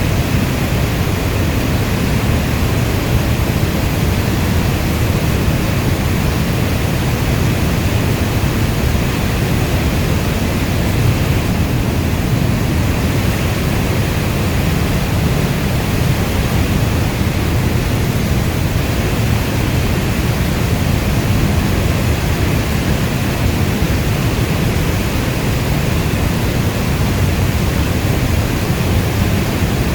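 Steady, even rainstorm noise, deep and heavy in the low end, with no single drops, thunder or gusts standing out.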